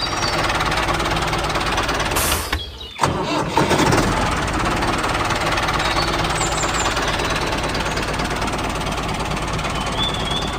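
Tractor engine running steadily; it cuts out briefly about three seconds in and then runs on.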